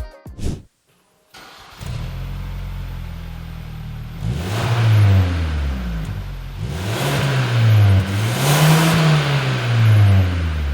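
Kia K5 GT's 2.5L turbocharged four-cylinder running through an MBRP dual split rear cat-back exhaust. It idles, then is revved three times, each rev rising and falling back to idle.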